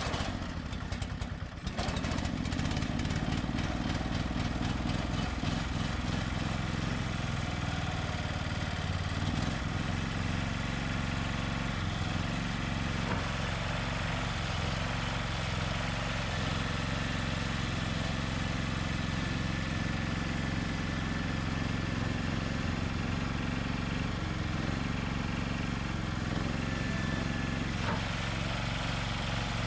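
Bolens H16XL garden tractor engine catching in the first couple of seconds, then running steadily at a constant speed.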